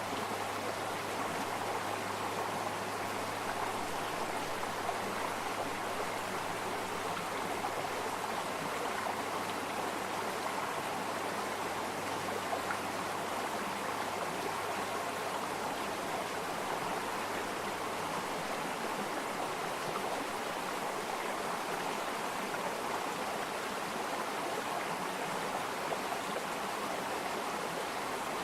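Flowing stream water running steadily, an even rushing and babbling.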